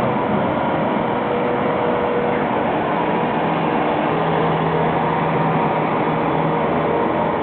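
Tractor running steadily while sweeping dirt with a powered broom: a constant engine hum with a few held tones over a dense rushing hiss.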